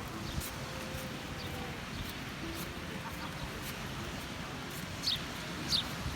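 Small birds chirping over a steady background hum: a few short, high, falling chirps, the clearest two near the end.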